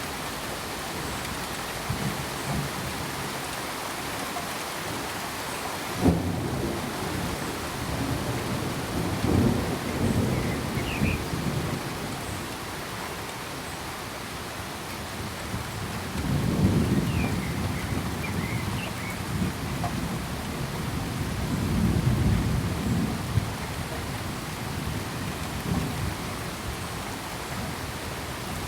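Steady rain in a thunderstorm, with a sharp crack of thunder about six seconds in and low rolls of thunder swelling and fading several times after.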